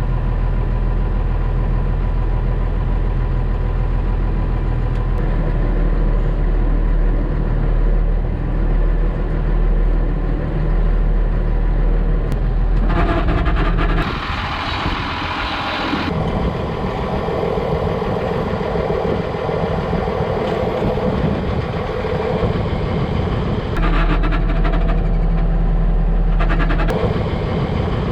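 A farm vehicle's engine running steadily, its sound changing abruptly a few times.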